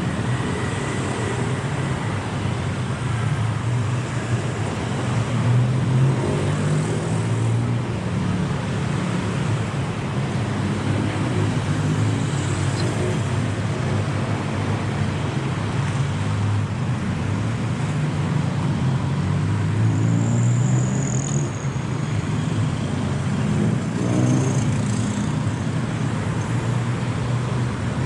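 City street traffic: cars and other motor vehicles running and passing by, their engine hum swelling and fading over a steady roar of road noise.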